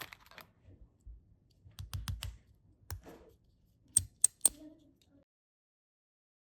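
Small plastic toy pieces handled and clicked together: scattered taps, a quick run of clicks about two seconds in, and three sharp clicks about four seconds in.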